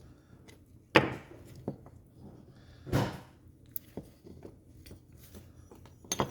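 Small metal parts of a Ski-Doo E-RAVE power valve clicking and knocking as the valve is taken apart by hand. There is a sharp click about a second in, another about three seconds in, and lighter ticks between and near the end.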